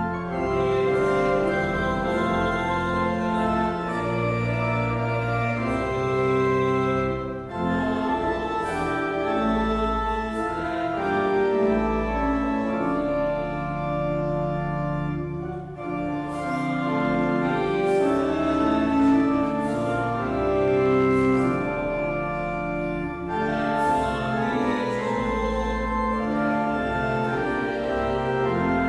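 Church organ playing a hymn in slow, sustained chords, with a short break between lines about every eight seconds.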